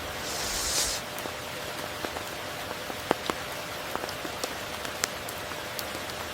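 Steady tropical rain, a dense even hiss dotted with sharp individual drop impacts. A brief brighter hiss swells and stops about a second in.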